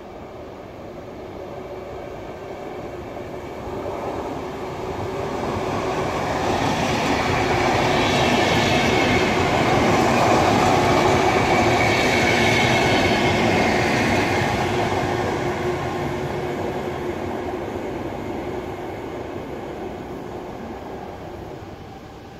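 VR electric passenger train of double-deck coaches passing on the track, its wheels rumbling and clattering on the rails. The sound builds as it approaches, is loudest about halfway through, then fades as it runs off into the distance.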